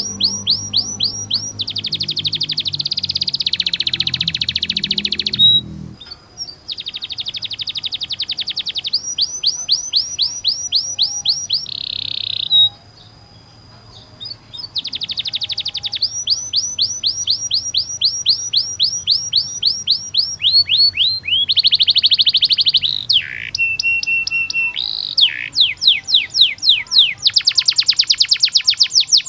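Domestic canary singing long rolling trills: phrase after phrase of fast repeated high notes, some sweeping, some buzzing, with a pause of about two seconds near the middle.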